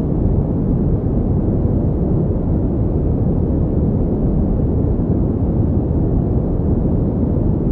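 Synthetic pink noise playing as a steady, unbroken rushing hiss, heavy in the low end and dull at the top.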